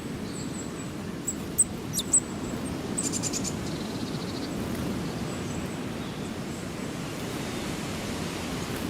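Small birds giving a few short, high chirps and a quick trill of rapid ticks in the first few seconds, over a steady low background rumble.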